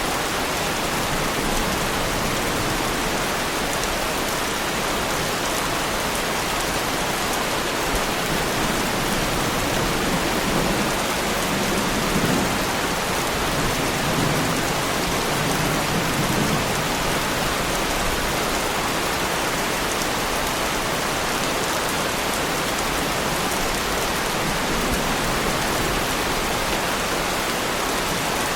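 Heavy rain pouring steadily onto a car. A low rumble of distant thunder swells and fades around the middle.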